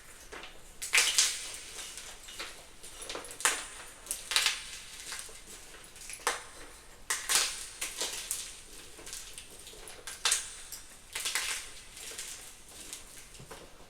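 Blocks of gym chalk being crushed, some of them dyed green: a run of irregular dry crunches and crumbling, roughly one every second, some much louder than others.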